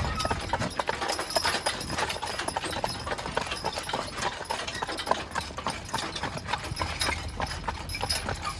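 Hooves of a pair of draft horses clip-clopping on pavement at a walk, an uneven run of sharp knocks.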